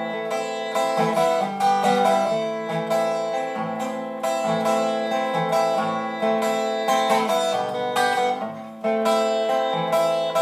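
Acoustic guitar being strummed and picked in a steady rhythm, an instrumental passage of a country-style song.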